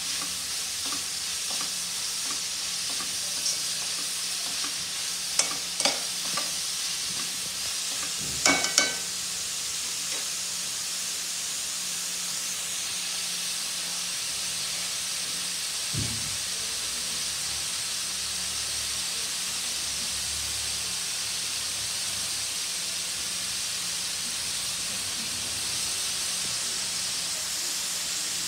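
Chopped onion and dill leaves sizzling steadily as they fry in oil in a metal kadai, cooked until their raw smell is gone. A spatula scrapes and clinks against the pan a few times in the first nine seconds or so.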